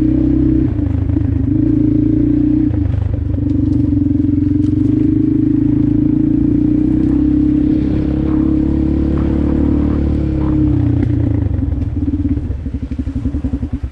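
Dirt bike engine running under throttle while riding, its pitch shifting a few times as the revs change. Near the end the revs drop to a slow, pulsing low-speed run.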